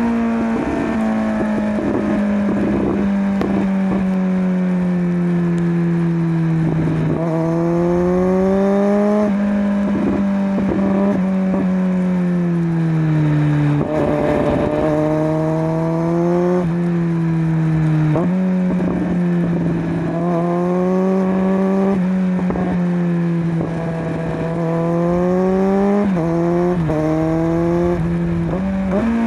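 Kawasaki Z900's inline-four engine breathing through a LeoVince LV10 slip-on exhaust, running under way at steady revs. Its pitch dips and climbs back several times as the throttle is eased and reopened, with wind rush on the microphone.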